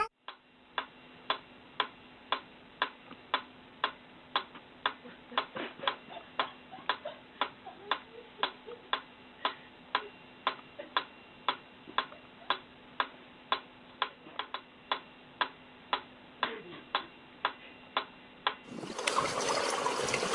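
Steady, even ticking, about two ticks a second, giving way near the end to a loud rushing noise.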